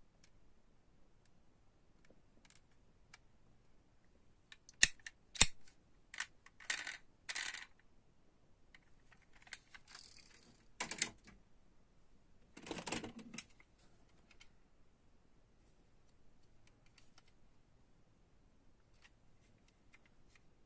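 Diecast toy cars and their packaging handled by hand: two sharp clicks about five seconds in, then several short bouts of rustling and scraping, with faint ticks in between.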